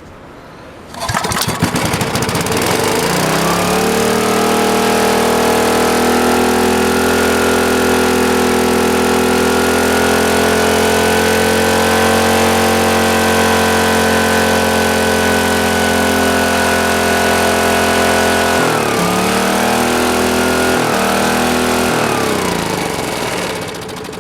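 Small gasoline engine of a Green Lee 5000-watt generator catching about a second in, revving up over a few seconds and then running fast and steady, at a speed the owner finds a little quick, which suggests a throttle stuck wide open. Near the end its speed drops and surges unevenly before it eases off.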